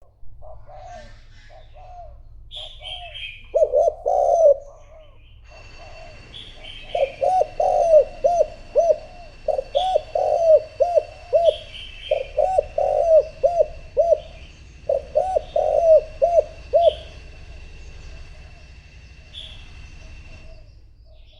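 Spotted dove cooing: a decoy bird giving repeated bursts of short, rolling coos, used to call in wild doves. Higher chirps from other small birds and a steady thin high tone run underneath for most of it.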